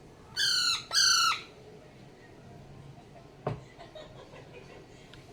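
Pet parrot giving two short, harsh squawks in quick succession, each falling slightly in pitch, followed a couple of seconds later by a single click.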